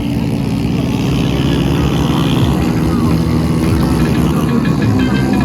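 Several small single-cylinder Honda Pop 100/110 motorcycle engines running together at a steady, loud level, their overlapping engine notes holding without a clear single rev.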